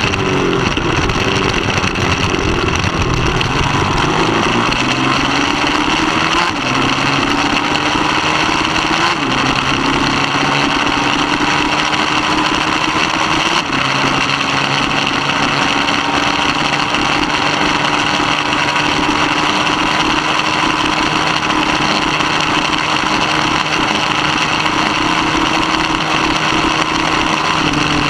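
Middleweight superbike engine running hard at high revs, heard onboard over steady wind rush. Its pitch climbs slowly at first, then holds fairly steady, dipping briefly a few times.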